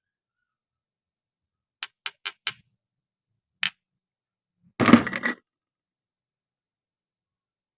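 Hard plastic toy pieces clicking and clattering: four quick clicks, a single click, then a louder, longer clatter about five seconds in.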